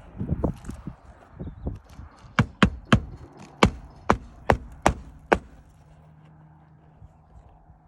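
Hammer driving a roofing nail into a shingle: about eight sharp strikes in three seconds, after a couple of seconds of scuffing and knocking.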